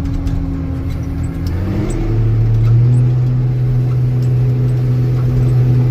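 Old Steiger four-wheel-drive tractor's diesel engine running, revving up about two seconds in and then holding steady at higher revs.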